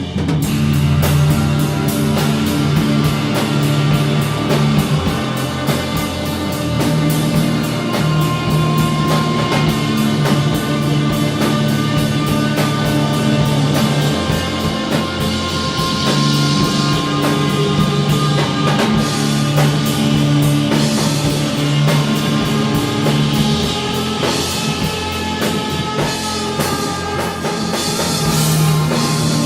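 Stoner rock instrumental: distorted electric guitars over a heavy, steady drum kit beat, with sustained low riff notes.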